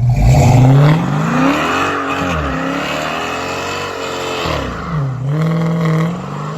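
A 6.1-litre Hemi V8 in a swapped Dodge Charger, breathing through catless headers and a Flowmaster exhaust, running under hard acceleration. The revs climb steeply and are loudest in the first second, drop at a shift about two seconds in, then hold and climb again, with another drop and rise near the end.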